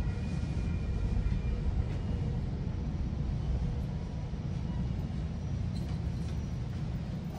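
GO Transit commuter train running between stations, heard from inside a passenger coach: a steady low rumble of wheels on rail, with a few faint thin whining tones in the first couple of seconds.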